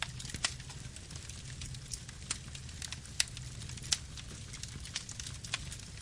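Wood campfire burning: a steady low rumble of flame with irregular crackles and sharp pops, a few louder snaps scattered through.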